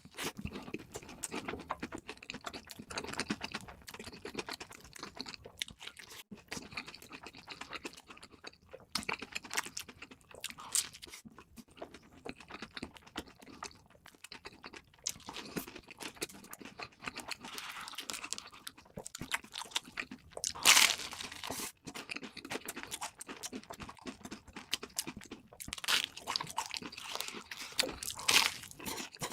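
Close-miked eating: steady chewing with crisp, crackling crunches of crunchy food, and one much louder crunching bite about two-thirds of the way through.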